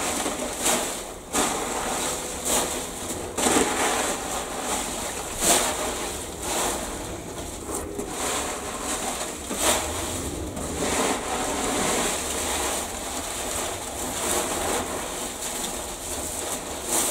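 Fallen leaves rustling and crunching as they are gathered up and packed into bags for leaf compost: a continuous crackle broken by frequent sharper scrunches.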